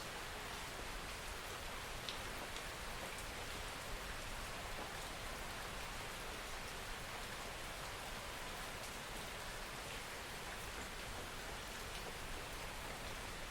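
Steady soft rain falling, an even hiss with scattered faint drop ticks.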